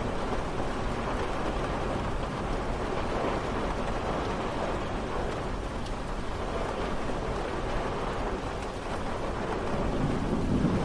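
Steady rain falling, an even hiss of many drops. A low rumble swells near the end.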